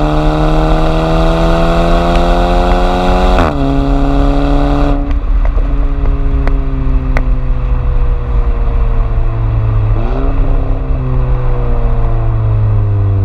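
Volkswagen GTI's turbocharged 1.8 TSI four-cylinder engine through an aftermarket custom exhaust, accelerating hard with an upshift about three seconds in, then the throttle closes about five seconds in and the revs fall slowly as the car coasts, with a few sharp cracks from the exhaust shortly after the lift-off.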